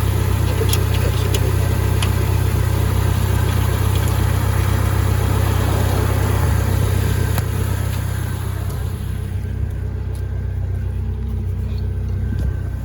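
1999 Jeep Wrangler TJ engine idling steadily, with a few light clicks in the first couple of seconds. It becomes a little quieter about eight seconds in.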